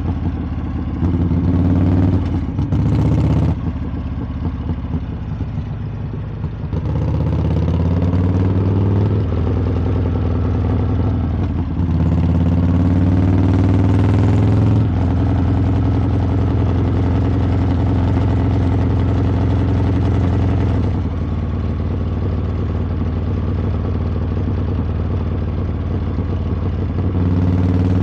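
Harley-Davidson V-twin engine and exhaust under way, revving up in several pulls: briefly near the start, again about seven seconds in and from about twelve seconds. It then holds a steady cruise, drops back a little around twenty-one seconds and rises briefly near the end.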